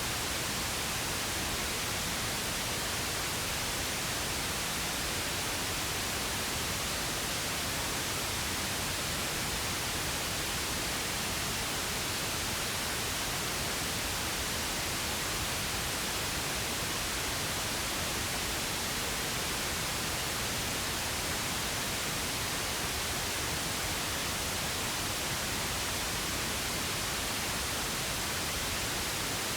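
Steady, unchanging pink noise: an even hiss spread across all pitches, with no events or variation.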